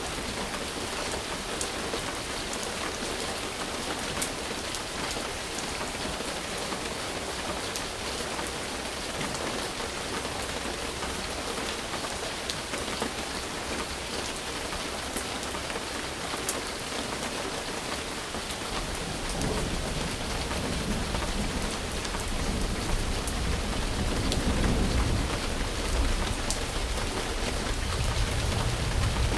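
Steady rain falling, with sharp drop hits here and there. About two-thirds of the way through, a low thunder rumble rolls in and the sound grows louder.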